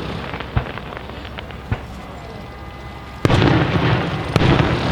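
Professional display fireworks: aerial shells bursting. Two single sharp bangs in the first two seconds give way to a quieter spell, then a loud dense burst with crackling about three seconds in and another sharp bang near the end.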